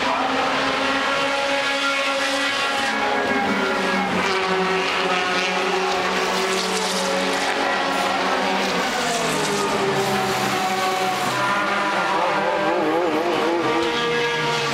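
Several touring-car racing engines running hard together, their notes climbing as they rev and dropping on gear changes. About twelve seconds in, one engine's pitch wavers quickly up and down.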